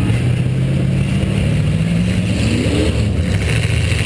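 Eight-cylinder engine of a demolition derby car running under throttle, revving up about two and a half seconds in and then settling back.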